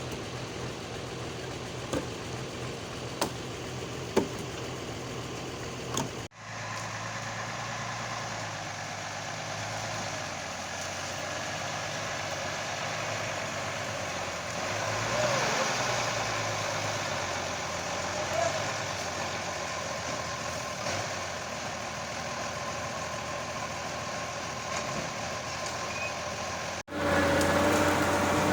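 Vintage army 4x4 truck's engine running steadily, with a few sharp clicks in the first several seconds. The sound breaks off abruptly twice and resumes.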